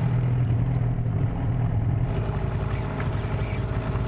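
Boat's outboard motor running steadily with a low, even hum, under wind and water noise.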